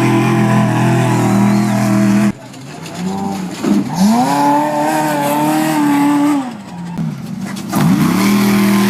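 Off-road race truck engines at high revs: the engine note climbs, holds high and steady for a couple of seconds, then drops, three times over. The first run breaks off abruptly about two seconds in.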